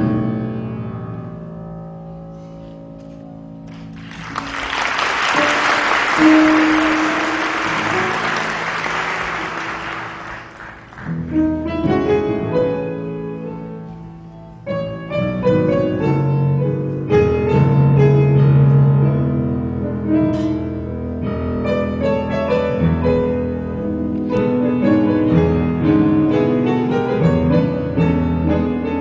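Instrumental music led by piano. A spell of applause rises over it about four seconds in and dies away around eleven seconds, after which the piano playing carries on.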